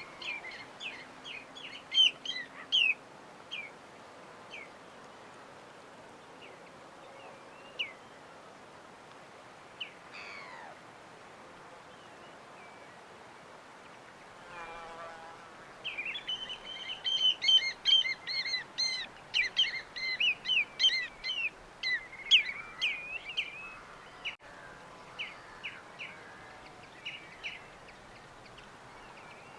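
Small birds chirping in quick, high series, sparse through the middle and turning into a busy, overlapping burst of chirps in the second half, over a faint steady background hiss.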